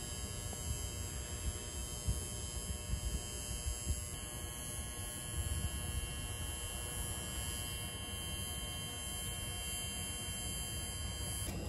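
Freight train hopper cars rolling slowly past: a steady low rumble with a constant high buzzing whine over it.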